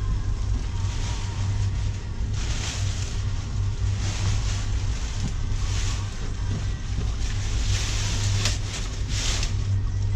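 Rustling and swishing of a synthetic-fabric motorcycle cover being pulled and stretched over the bike, in several swelling bursts, over a steady low rumble.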